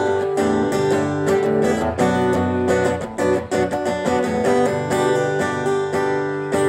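Acoustic guitar strummed in steady chords, playing the instrumental ending of a song.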